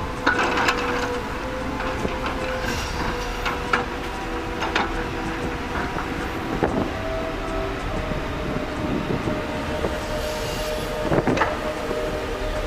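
Mechanical noise: a steady hum of held tones, with scattered sharp clicks and knocks.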